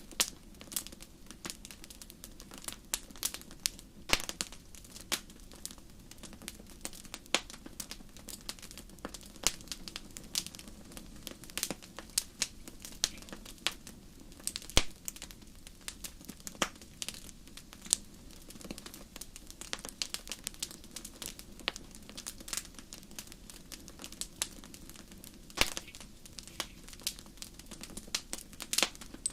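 Wood fire burning in a fireplace, crackling with irregular sharp pops over a low steady rush of flame. A couple of louder pops come about halfway through and near the end.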